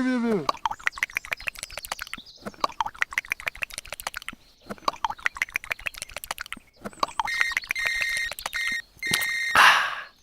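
Rapid, irregular clicking and tapping, then a run of electronic beeps: a steady high tone switching on and off several times, ending in a short burst of hiss.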